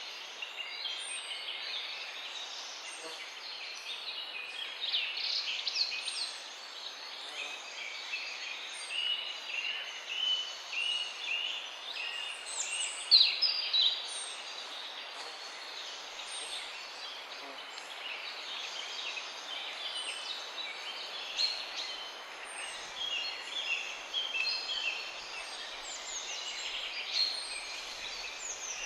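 Several songbirds singing at once in a mixed chorus of overlapping chirps, trills and warbles, with one thin, very high note repeating about once a second over a steady hiss.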